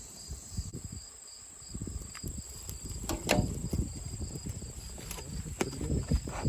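Crickets chirping in a steady high chorus, with scattered rustling and knocks of handling and a few sharp clicks about three and five and a half seconds in.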